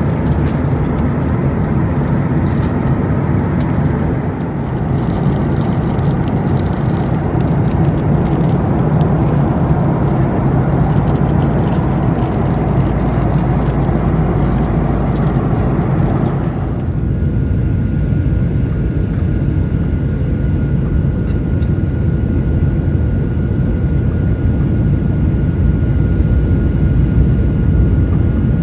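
Cabin noise aboard a Boeing 737-800 airliner: a loud, steady rumble with some rattling that drops abruptly about two-thirds of the way in to a quieter low hum with a faint steady whine.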